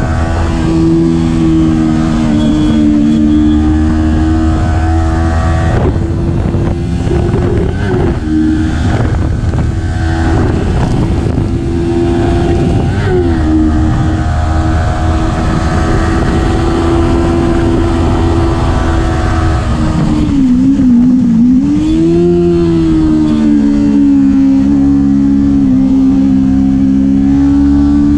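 Kawasaki Ninja 400's parallel-twin engine running steadily under load while riding. Its pitch briefly dips and recovers twice, and later sags and then climbs again.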